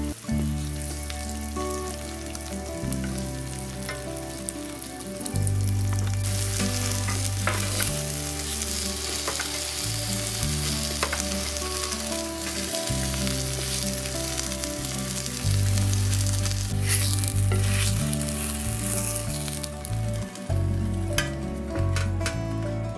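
Chicken breast slices sizzling as they fry in oil in a nonstick frying pan, louder from about six seconds in, with occasional chopstick clicks as pieces are turned and lifted out. Background music with a changing bass line plays underneath.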